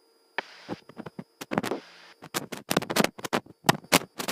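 Cockpit intercom or headset microphone crackling: irregular scratchy clicks that come faster and louder from about two seconds in, after a short burst of hiss as the audio opens about half a second in.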